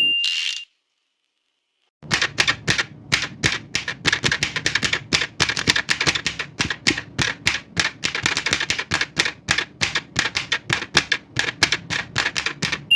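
Old manual typewriter: its line-end bell dings at the start, then after about a second and a half of silence the keys are typed in a fast, uneven stream of sharp clacks, several a second.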